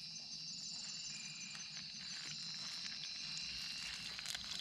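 Night insect chorus of crickets: a steady high-pitched chirring, with a second insect's faster pulsing trill coming in twice.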